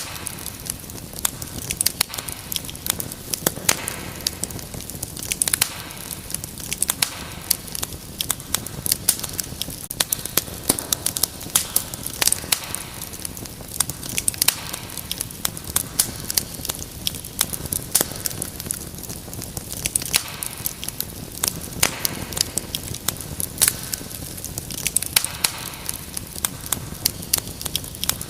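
Wood fire crackling: dense, irregular sharp pops and snaps over a steady hiss.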